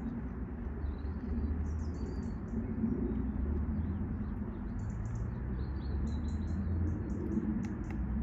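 Birds chirping in short, high clusters several times over a steady low rumble.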